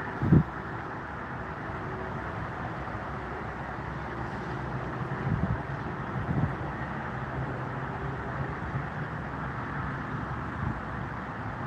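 Wind gusting on the microphone, with short low buffets near the start and twice around the middle, over a steady outdoor rumble at an airport.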